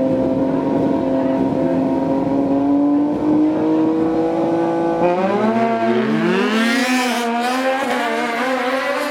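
Racing motorcycle engine at high revs, its note held and slowly rising. About five seconds in the pitch drops and then climbs again in quick rising sweeps as the bike accelerates.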